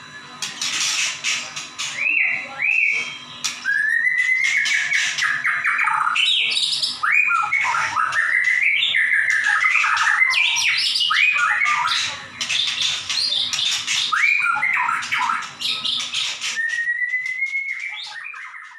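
White-rumped shama (murai batu) singing loudly in full, rapid song: a varied run of whistled notes, rising and falling glides and fast chattering trills, with a faint low hum beneath that stops near the end.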